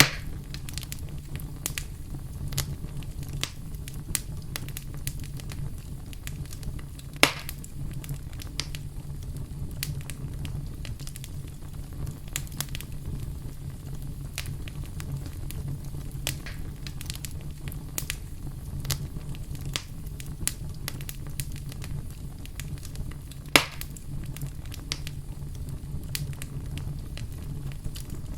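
Campfire burning with a steady low rumble and irregular wood crackles, with two louder pops, about seven seconds in and again near the end.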